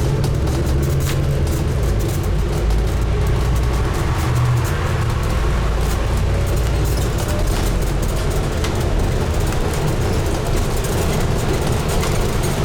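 Scania N250UD double-decker bus running along, heard from on board: a steady low drone of its five-cylinder diesel engine and road noise, with scattered light clicks and rattles.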